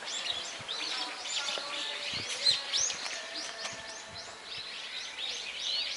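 Birds chirping outdoors: many quick, overlapping chirps and short calls in a continuous chorus.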